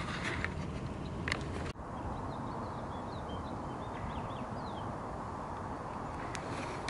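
A few sharp clicks and rustles of handling in the first two seconds, then an abrupt cut to steady low outdoor background noise with scattered faint bird chirps.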